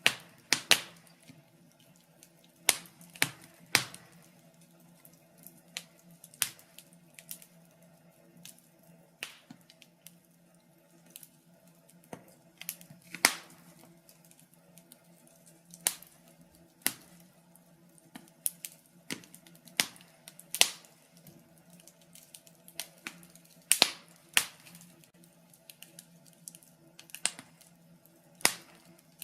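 Wood fire in a fireplace crackling, with sharp pops at irregular intervals, about one a second, some much louder than others.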